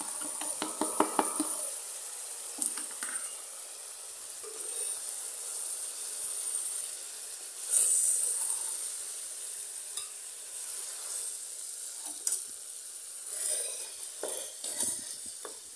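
Chopped tomatoes scraped off a plastic plate with a wooden spoon into a hot aluminium pot of beef, with a quick run of clatters at the start. They then sizzle steadily in the dry pot, louder for a moment about eight seconds in. Near the end a wooden spoon stirs and knocks against the pot.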